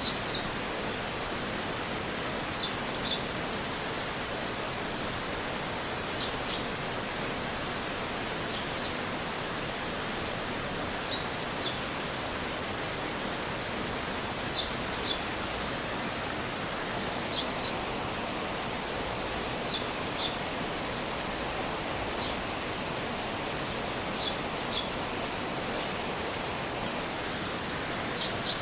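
Stream water rushing steadily, with a small bird repeating a short, high two- or three-note chirp about every two and a half seconds.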